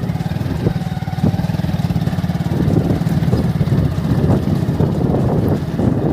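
Vehicle engine running while driving over a badly broken road, with scattered knocks and rattles from the bumps that grow rougher about halfway through.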